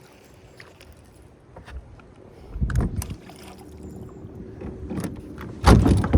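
Knocks and clatter of fishing gear being handled in a jon boat, starting about two and a half seconds in, with a couple of heavy thumps near the end.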